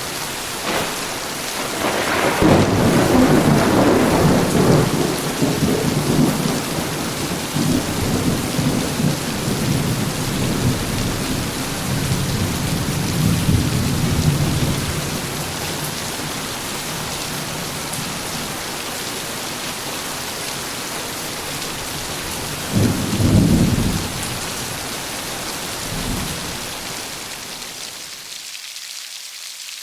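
Heavy rain falling steadily with a long rolling rumble of thunder from about two seconds in, then a shorter, sharper thunderclap about three-quarters of the way through and a faint one soon after.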